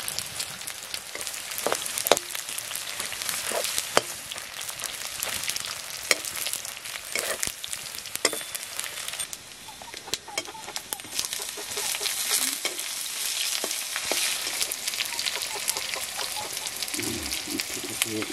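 Greens frying and sizzling in a steel wok, stirred with a metal ladle that scrapes and clicks against the pan. The sizzle dips briefly about ten seconds in, then comes back louder.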